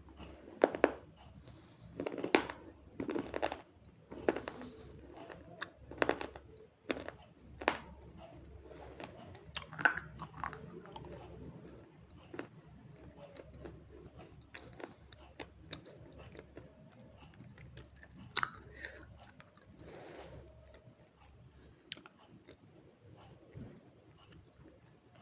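Slate pencil being bitten and chewed with multani mitti paste: sharp crunches every second or so through the first ten seconds, another loud crunch near the end, and softer mouth-chewing between them.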